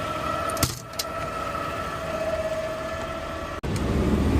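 Garbage truck running, with a steady high whine over the engine and a sharp click about two-thirds of a second in. Near the end the sound breaks off abruptly and a louder low engine rumble takes over.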